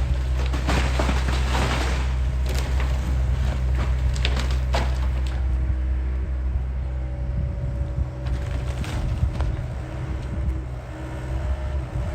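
John Deere excavator running while tearing into a wooden house: wood splintering, cracking and crushing over the steady engine drone for the first five seconds or so. After that the engine runs on with a steady humming tone and only occasional snaps.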